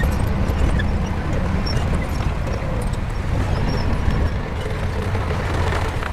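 Shantui bulldozer's diesel engine running steadily under load, a continuous low rumble with faint scattered ticks above it.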